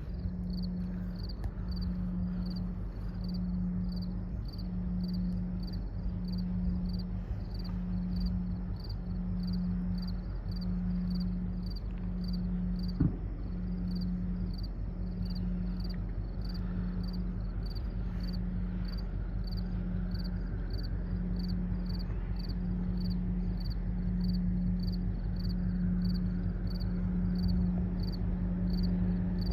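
Insects chirping in an even rhythm, about one and a half chirps a second, over a steady low rumble and a low hum that pulses about once every second and a half. There is one sharp click about halfway through.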